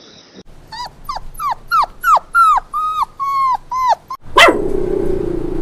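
A dog yelping: a quick run of about ten short, high yips, each falling in pitch, then a loud sudden cry near the end that drops into a steady lower whine.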